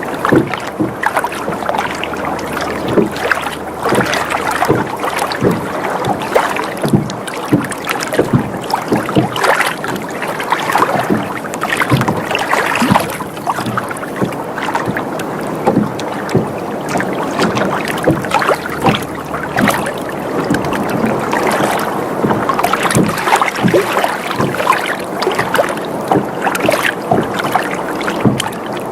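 Water sloshing and lapping against a rocking sailboat's hull, with frequent small slaps and splashes and creaking from the boat, continuing without let-up.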